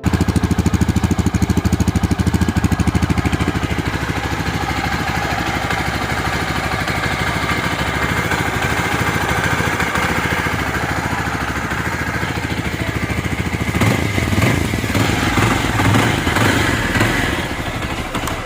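Yezdi Adventure's single-cylinder, four-stroke, liquid-cooled engine running through its exhaust, steady at idle. The throttle is blipped a few times near the end, making it louder and rougher.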